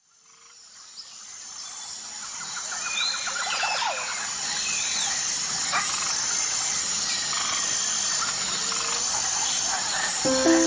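Bird calls and chirps, with a quick trill about two to three seconds in, over a steady hiss, fading in from silence over the first few seconds. Music notes come in just at the end.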